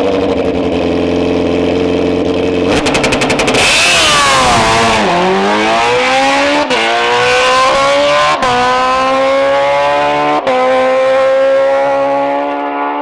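A drag car's engine is held at steady revs on the line, then launches with a brief rapid crackle. The engine note climbs through the gears with three quick upshifts, then fades near the end.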